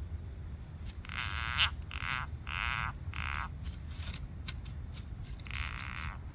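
A frog calling in a series of short, rasping croaks, about five in quick succession and another near the end, over a steady low hum.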